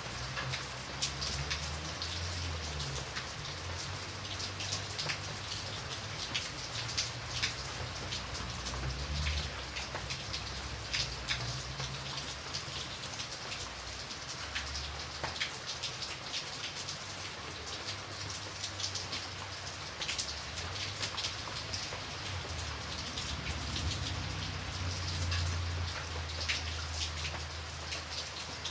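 Steady rain falling, with many close individual drops ticking on a surface over a soft low rumble.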